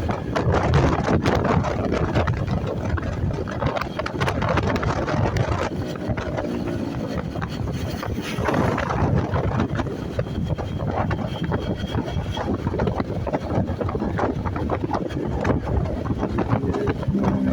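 Wind buffeting the microphone on a moving motorcycle, a loud, gusty rumble over the vehicle's running noise.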